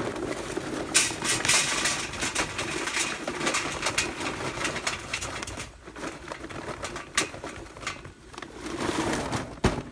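Kingsford Blue charcoal briquettes being poured into a metal chimney starter: a continuous clatter of tumbling briquettes. It eases off about six seconds in, picks up again, and ends with a sharp knock.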